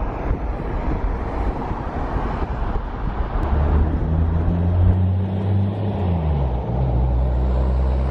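Low rumble of a motor vehicle running close by, over a noisy background. A steady low engine hum sets in about three seconds in and drops slightly in pitch near six seconds.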